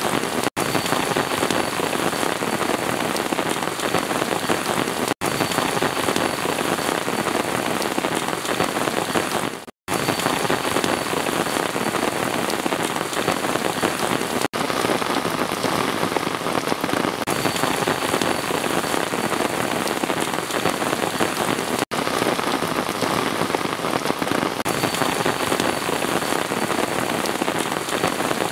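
Steady heavy rain pouring onto surfaces, a dense even hiss of countless drops. It is broken by a few momentary gaps, the longest about a third of a second near the middle.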